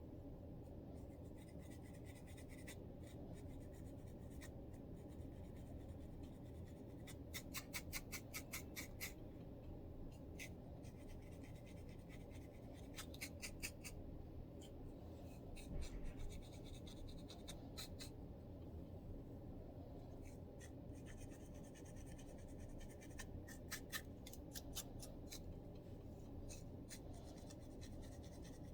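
Close-up scratching of a dandruff-covered scalp: runs of quick, sharp scraping strokes, several a second, with pauses between, over a low steady hum.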